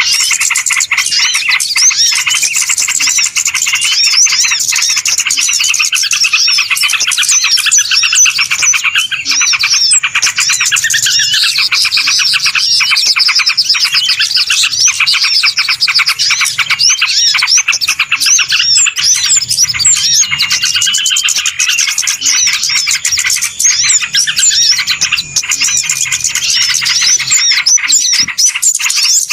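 A dense, noisy chorus of many small birds chirping and twittering at once, with rapid overlapping calls and no pauses, played as a bird-lure recording to draw birds in.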